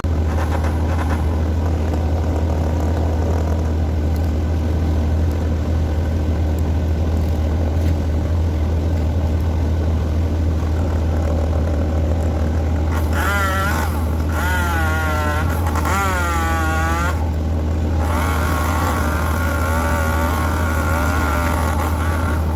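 Heavy equipment engine running steadily at a low, even speed, with a wavering higher whine that rises and falls for a few seconds past the middle.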